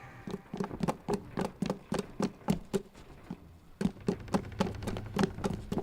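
A quick run of light footfalls, about three or four a second over a faint low hum, stopping for about a second midway and then starting again.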